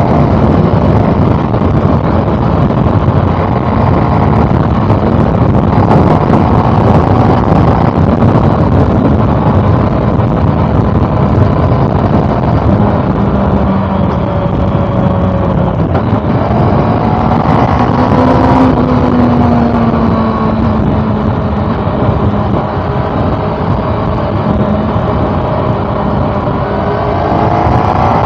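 Honda CB400 Super Four's 399 cc inline-four engine running under way, with steady road and wind noise. The engine pitch falls and rises a couple of times in the middle and climbs near the end as the rider works the throttle.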